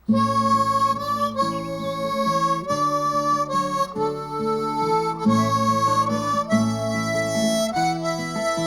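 Harmonica playing a melody over strummed acoustic guitar, starting suddenly: the instrumental opening of a folk song.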